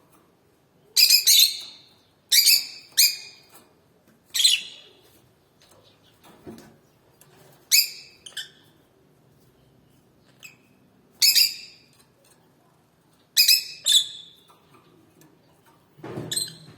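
Canary giving short, sharp chirping calls, a burst every one to three seconds.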